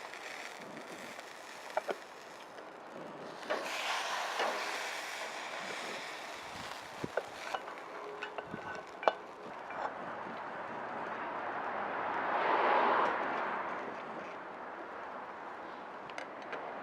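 Wind gusting outdoors, swelling twice, with scattered sharp clicks and crackles over it.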